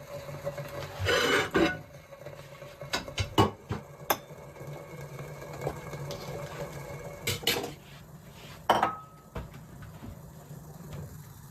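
Kitchen clatter: dishes and utensils knocking and clinking several times, one clink ringing briefly near the end, over a steady low hum.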